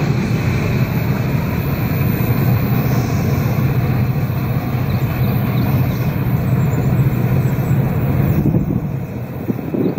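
Freight train's tank cars rolling past on the rails: a steady low rumble that eases off about eight and a half seconds in.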